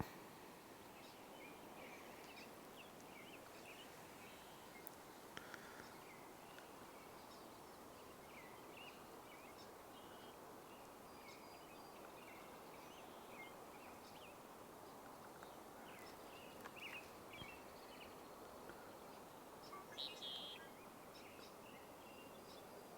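Faint, scattered short chirps of small birds over a steady background hiss, with one slightly louder call about twenty seconds in.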